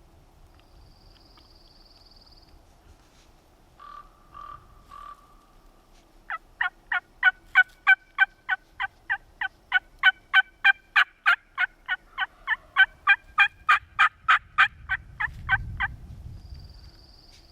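Turkey yelping: a few soft notes, then a long, even run of yelps, about three to four a second for nearly ten seconds, starting about six seconds in. A thin high whistle comes near the start and again at the end.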